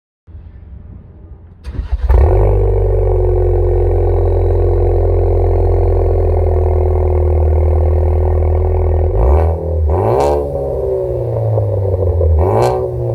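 Ford Focus ST250's turbocharged 2.0 EcoBoost four-cylinder being started: the starter cranks briefly, the engine catches about two seconds in, then settles into a steady idle. The exhaust note is heard through the exhaust system, and the engine is revved twice near the end.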